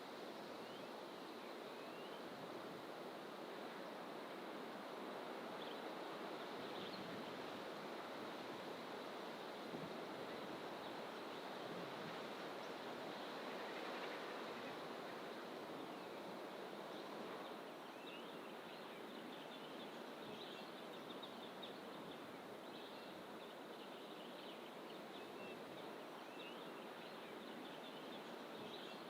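Distant ocean surf, a steady wash that swells a little around the middle, with faint scattered bird chirps from the surrounding bush, more frequent in the second half.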